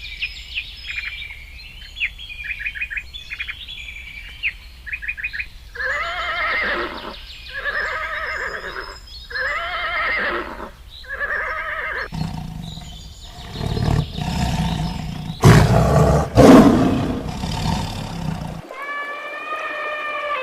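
A run of animal calls: quick high bird chirps and trills, then four drawn-out, arching calls repeated at even spacing, then several seconds of loud, rough roaring, and one more pitched call near the end.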